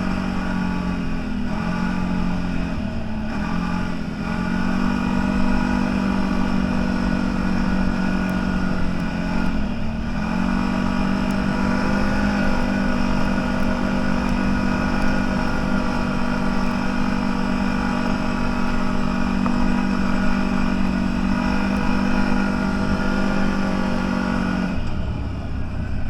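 CFMoto 1000 off-road vehicle's engine running at steady revs while driving. The revs dip briefly twice, about 3 and 10 seconds in, then drop to a lower note near the end as the throttle comes off.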